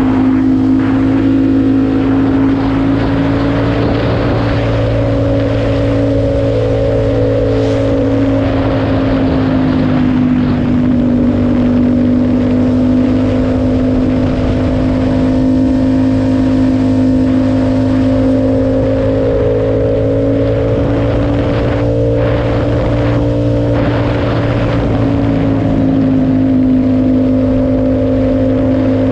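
Yamaha MT-07's 689 cc parallel-twin engine through an aftermarket SC-Project exhaust, heard from the rider's seat while cruising at a fairly steady engine speed. Its pitch drifts slightly up and down, with a rushing wind noise over it.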